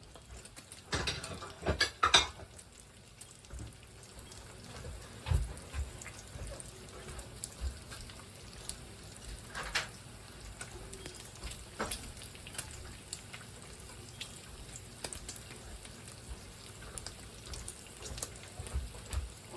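Bacon frying in a pan on the stove with a soft, steady sizzle. Now and then a utensil clicks or knocks against the cookware, several times about two seconds in and a few times later.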